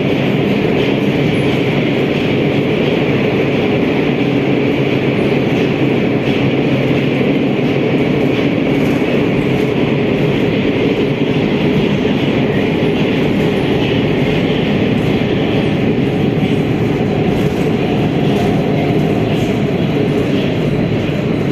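Metro train running at speed through the tunnel between stations, heard from inside the passenger car: a steady, loud rumble of wheels on rails and the motors.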